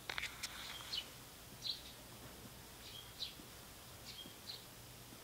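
Short, high bird chirps repeating about once a second over faint outdoor ambience. A few sharp clicks come right at the start.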